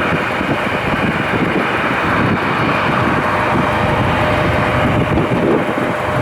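Jet airliner's engines running steadily at taxi power, a dense rumble with a faint steady whine, mixed with wind buffeting the microphone.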